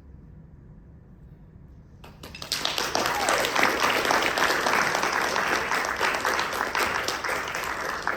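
Audience applause, starting suddenly about two seconds in and continuing densely before beginning to thin out near the end.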